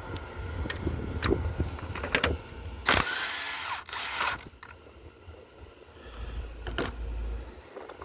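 Scattered metallic clicks of a socket and wrench on a bolt, then, about three seconds in, a power wrench runs for about a second and a half with a shifting whine as it spins a bolt out of the engine mount.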